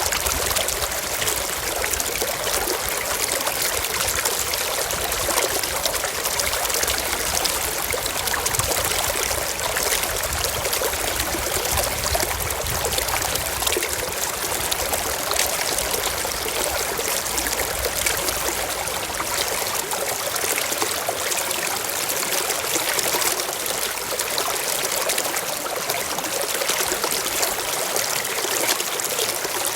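Shallow stream trickling and splashing over rocks in a steady rush, with some low rumble that drops away about two-thirds of the way through.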